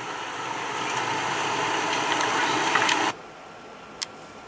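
Heavy rain pouring down, a steady hiss that cuts off suddenly about three seconds in, leaving a quieter background with a couple of faint clicks.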